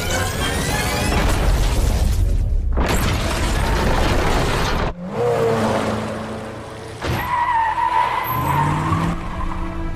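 Movie car-chase sound mix: a speeding vehicle, skidding and tire squeal with heavy impacts, over a music score. A dense roar breaks off abruptly about halfway, and a long squeal follows later.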